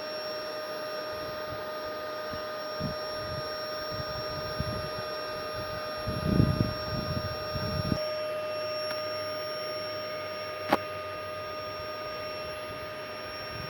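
Bee vacuum running with a steady whine, sucking up honeybees. Low bumps and knocks come in the middle, the loudest about six and a half seconds in, and there is one sharp click near the end.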